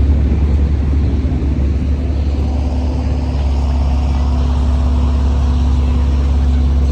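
Steady low rumble of city street traffic and engines, with a constant hum.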